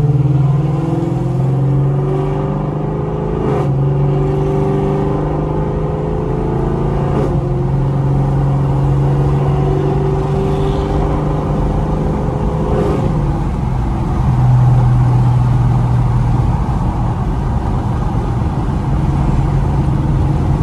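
2016 Camaro SS's 6.2-litre V8, heard from inside the cabin, accelerating hard through the gears. The engine note climbs in pitch and drops back at upshifts about three and a half seconds in, about seven seconds in and about thirteen seconds in, then holds a steady pitch as the car cruises at highway speed.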